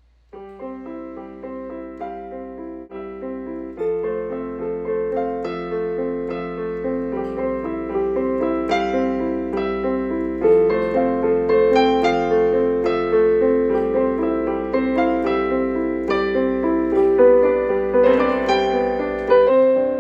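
Solo piano music, a steady run of notes and chords that grows louder about four seconds in.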